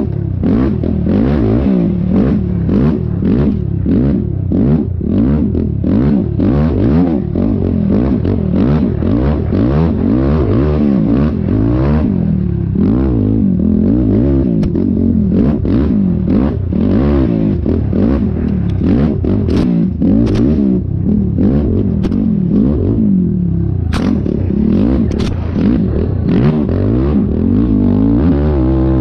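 Yamaha YFZ450R quad's single-cylinder four-stroke engine being ridden hard, the revs rising and falling every second or so with the throttle, with scattered clattering knocks.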